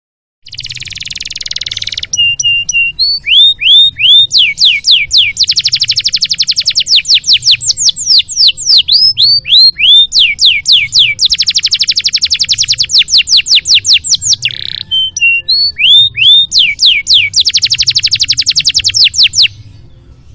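Domestic canary singing loudly: a short raspy opening note, then long phrases of very fast trills made of repeated downward-sweeping notes, broken by short pauses and slower single sweeps. A faint low hum runs underneath.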